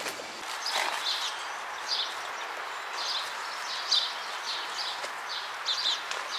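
Small birds chirping in short, repeated high calls over a steady outdoor background hiss.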